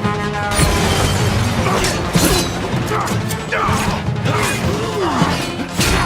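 Action-film soundtrack mix: music under loud crashes and metallic mechanical clatter, with several sliding squeals in the middle and a heavy hit near the end.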